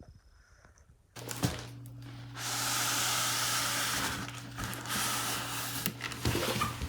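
Cardboard shipping box being opened by hand: a long scraping hiss of packing tape and cardboard, with a few clicks and knocks.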